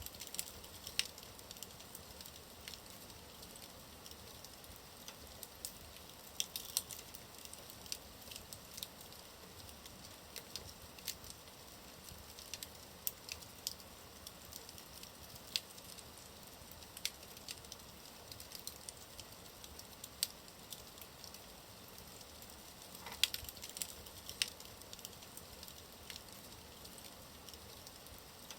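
Wood fire burning in a fireplace: a soft steady hiss with irregular sharp crackles and pops, one louder pop about 23 seconds in.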